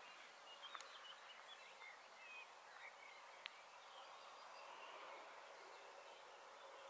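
Near silence with faint, scattered bird chirps in the distance, and a single sharp click about three and a half seconds in.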